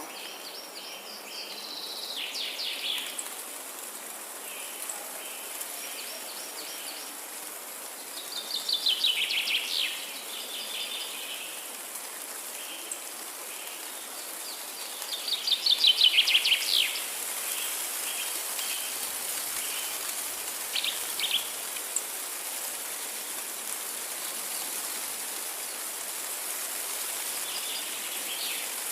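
Forest songbirds singing: three louder rapid trilled phrases about seven seconds apart, the last the loudest, with shorter repeated chirps between them. A steady high hiss runs underneath.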